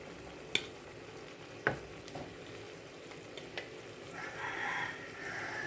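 Chicken pieces sizzling in a hot pot as they go in, with a few sharp clinks of a utensil against the pot. A rooster crows faintly near the end.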